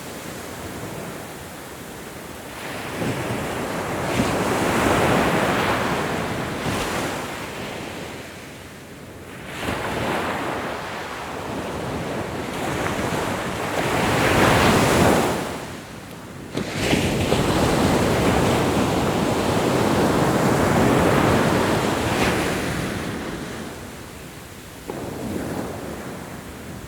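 Ocean waves breaking and washing on the shore in slow, repeated surges, each swelling to a rush and falling away, with wind on the microphone.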